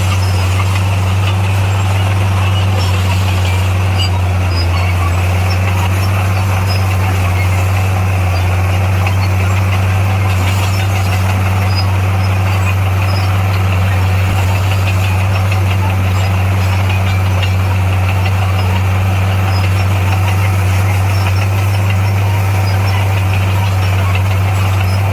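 Diesel engine of heavy earthmoving equipment running at a steady speed, a constant low drone with no change in pitch or level.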